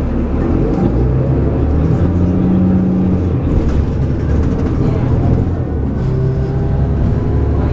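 Cummins ISL diesel engine and ZF automatic transmission of a 2006 New Flyer D40LF transit bus running under way, heard from on board. The engine note changes pitch several times, and a faint rising whine comes in near the end.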